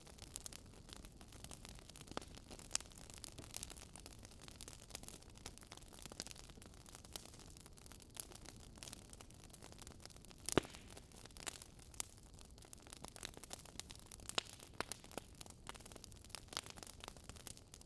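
Campfire crackling, faint, with irregular sharp pops and snaps over a soft hiss and one louder pop about ten seconds in.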